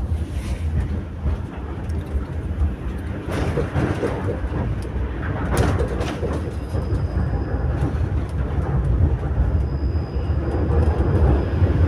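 Tram running, heard from on board: a steady low rumble with rattling and a few sharp knocks.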